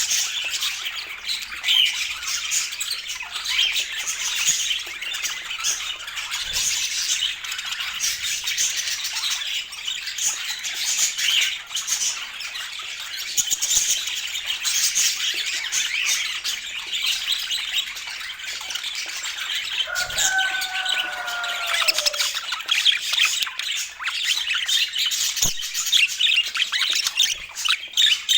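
Budgerigars chattering without pause: a dense stream of warbles, chirps and squawks, with one longer falling tone about twenty seconds in.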